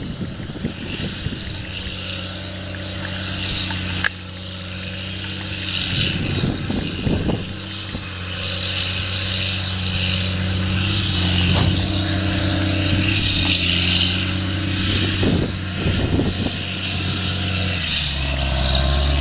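An engine running steadily, with a hiss over it, growing louder near the end.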